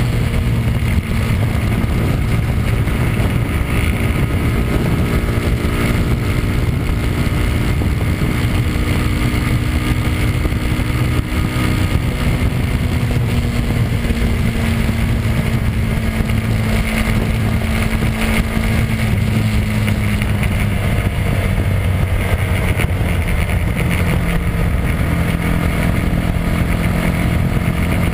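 Bera R1's 200 cc single-cylinder engine running hard at high revs in fifth gear, with wind noise; the engine note slowly falls in the second half as the revs ease.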